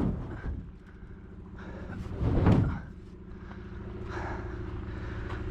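Pickup truck engine idling steadily, with a heavy thump and scrape about two and a half seconds in.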